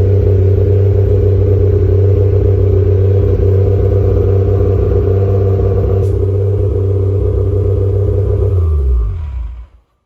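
2JZ inline-six engine in a Nissan 300ZX running steadily through its new custom turbo downpipe and exhaust. About a second before the end its pitch drops and the sound dies away.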